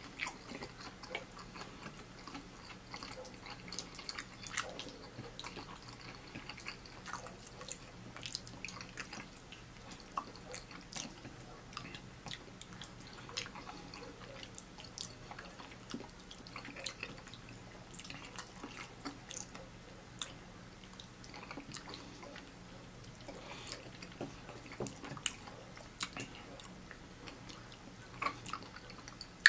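Close-miked mouth sounds of a person eating saucy, cheesy Hamburger Helper macaroni from a spoon: soft wet chewing and lip smacks, a steady scatter of small irregular clicks.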